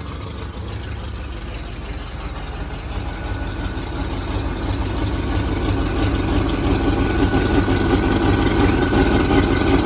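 1970 Mercury Cougar Eliminator's 428 Cobra Jet V8 running on its first start after a full rebuild, growing louder from about three seconds in.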